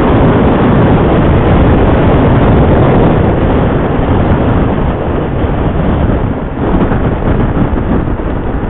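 Wind rush and riding noise picked up by a motorcycle helmet's Senna intercom microphone on the move, a loud steady roar that eases a little about halfway through.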